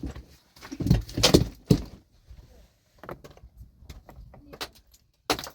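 A run of sharp knocks and clinks of hard objects striking each other, loudest in a cluster about a second in, then lighter scattered clicks.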